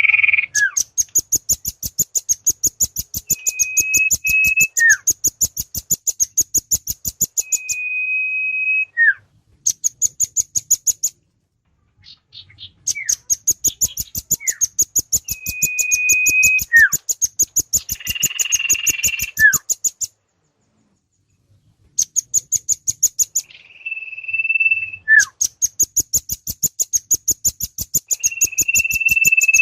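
Bird-lure recording of rambatan (velvet-fronted nuthatch) and sirtu (common iora) calls: rapid runs of very high, thin chips, several a second, broken by long level whistles that each end in a short falling note. A buzzy call comes about two-thirds of the way through. The calls stop twice for a second or two.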